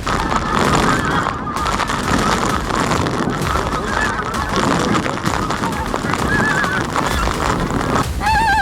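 A large flock of pink-footed geese calling together: a dense chorus of high, wavering honks, over wind rumble on the microphone. Near the end, one close goose call stands out clearly above the chorus.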